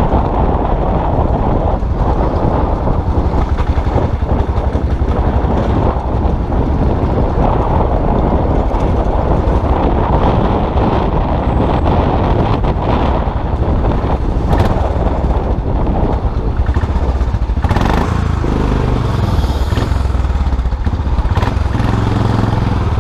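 Custom motorcycle engine running while riding, mixed with wind rushing over the microphone. Near the end the wind eases and a steady, lower engine note comes through.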